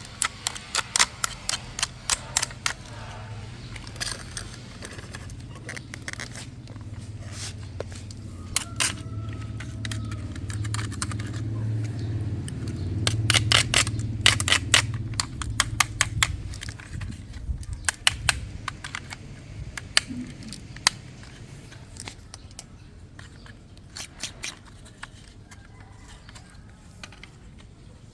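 Quick clicks, taps and scrapes of small hard toy parts being handled and worked on, over a low steady hum that grows in the middle and fades near the end.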